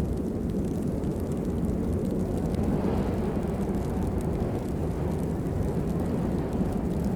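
Steady rain: a deep, even rush with a few faint scattered drop ticks.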